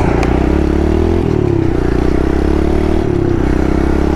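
Kawasaki KLX110 pit bike's small single-cylinder four-stroke engine running at speed under its rider, over a steady rush of wind. The engine note shifts in pitch about a second in and again after three seconds.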